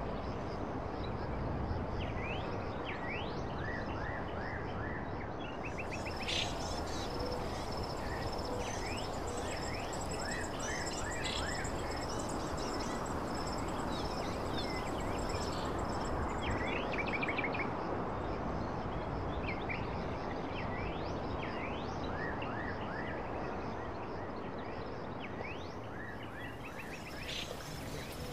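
Nature ambience: steady rushing water like a stream, with birds chirping on and off and a high insect trill through the middle.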